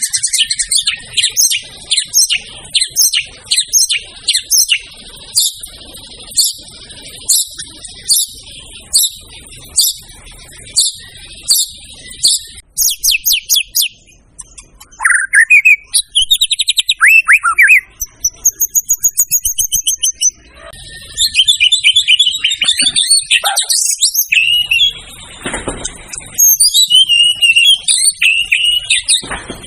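White-rumped shama (murai batu) singing in full song: runs of rapid repeated sharp notes, then rising and falling whistled glides and fast high trills, with brief pauses between phrases.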